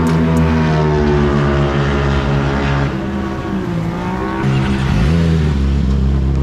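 Racing motorcycle engines running loudly, the pitch sliding down and then climbing again as they rev, with a sharp rise in revs right at the end.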